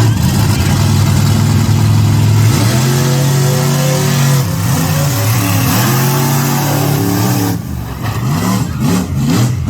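Monster truck engine running loud and revving, its pitch swinging up and down again and again; it eases off for a moment about eight seconds in, then revs up again in quick, short revs.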